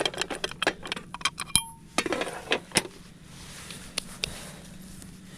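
Rapid clattering and clinking of small hard objects, with one clink about one and a half seconds in that rings briefly; after about three seconds only a few scattered knocks.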